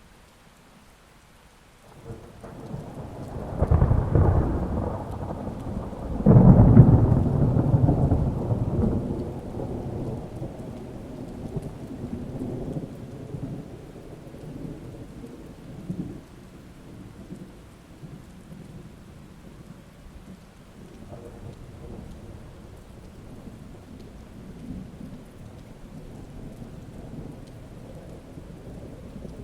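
Thunder rolling over steady rain: a rumble builds about two seconds in, peaks twice in quick succession, then dies away over several seconds, with fainter rumbles later.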